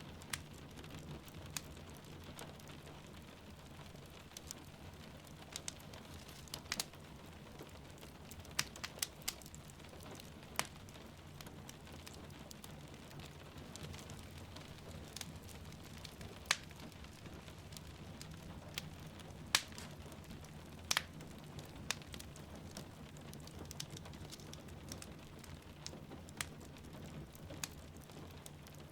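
Wood fire crackling, with sharp irregular pops scattered throughout and the loudest ones a little past the middle, over a steady patter of rain and a low, even rumble.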